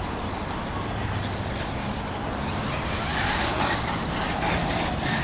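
Electric off-road RC buggies running around a dirt track: a steady mix of motor and tyre noise that grows a little louder and brighter about three seconds in.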